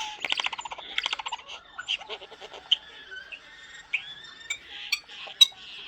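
Pet starling singing: a rapid clicking rattle, then a jumble of short whistles, squeaks and buzzy notes with a rising whistle partway through.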